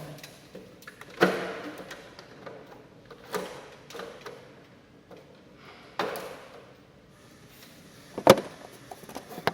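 Handling noise: about five separate knocks and scrapes, some trailing off in a brief rustle, the sharpest knock about eight seconds in.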